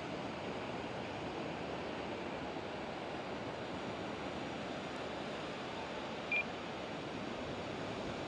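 Steady wash of surf and wind noise, with a short high beep about six seconds in.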